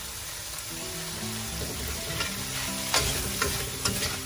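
Chicken and Thai chilli paste sizzling in an oiled wok while being stirred with a metal spatula. In the second half the spatula scrapes against the pan three times.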